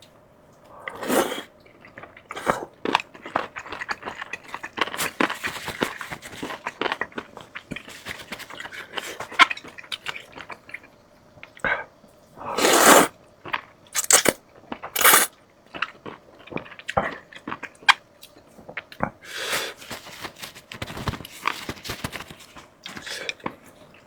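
Close-miked eating: a person crunching and chewing crispy fried chicken, with many short crackly bites. A few louder bites land around the middle.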